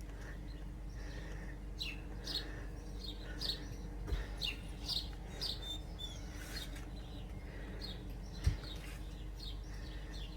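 Small wild garden birds chirping in a hedge: many short, sharp chirps, several a second, with a single dull bump about eight and a half seconds in.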